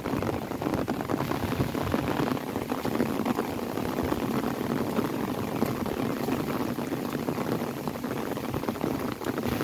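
Rain falling on an umbrella: a dense, steady patter of many drops.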